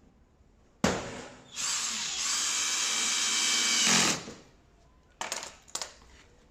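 A power drill or screwdriver runs for about three seconds, driving a screw while the tumble dryer is being assembled. Two short clatters follow near the end.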